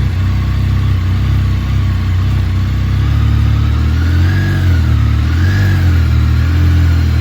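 A motorcycle engine running, its pitch rising and falling twice in the second half as the throttle is blipped.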